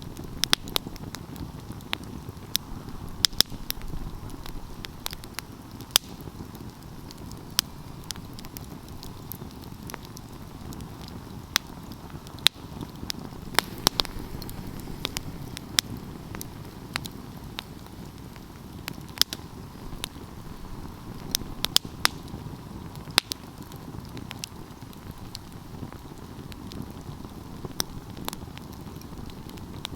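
Wood fire burning: a steady low rush of flames with frequent sharp crackles and pops at irregular intervals.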